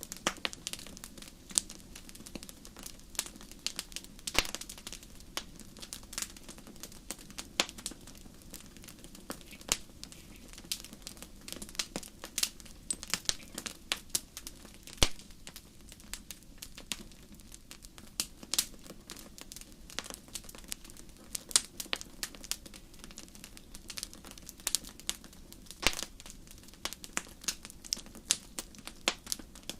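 Wood fire burning in a fireplace, crackling and popping irregularly, with several pops a second, some sharper and louder than others, over a low steady hum.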